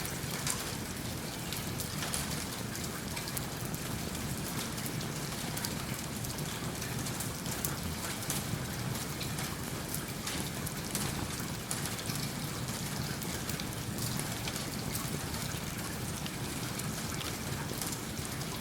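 Steady rain, an even rushing hiss dotted with many small sharp ticks throughout.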